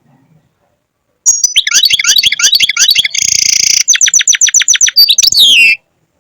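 European goldfinch singing: a fast twittering phrase with a buzzy rasp in the middle, then a quick run of repeated notes and a falling slur. It starts about a second in and cuts off abruptly after about four and a half seconds.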